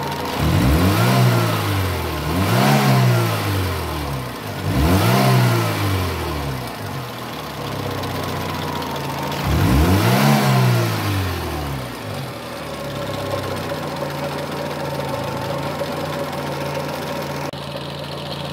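Fiat Cinquecento engine revved by hand at the throttle four times. Each rev rises in pitch and falls back to idle. The last one comes about ten seconds in, and the engine then idles steadily.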